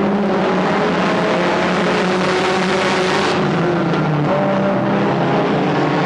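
Stock car engines running loudly as cars race around the track, several engine notes overlapping; the higher part of the noise eases about three seconds in.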